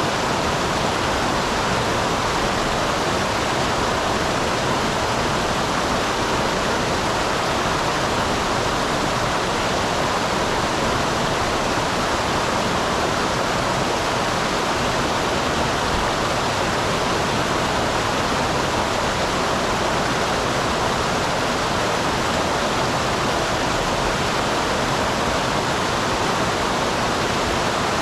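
Small waterfall on a mountain stream: water splashing and rushing steadily without change.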